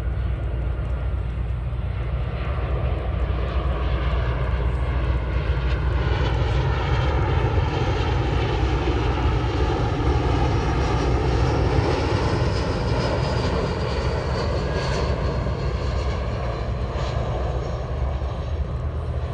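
Jet airliner on approach to land passing by, its engine noise building to a peak around the middle. A high engine whine falls in pitch as it goes past, over a steady low rumble.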